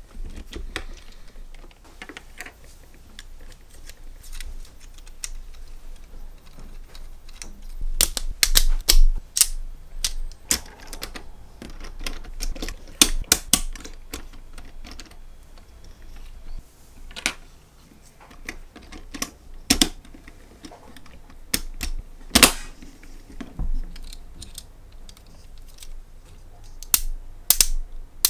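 Irregular sharp clicks and clacks of small hard objects, with no steady rhythm: a dense flurry about eight seconds in, another around thirteen seconds, and one loud clack about twenty-two seconds in.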